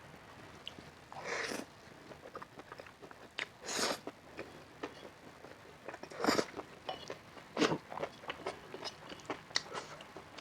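A person eating close to the microphone: biting and chewing with many small clicks and crunches, and four louder bites spread through the stretch.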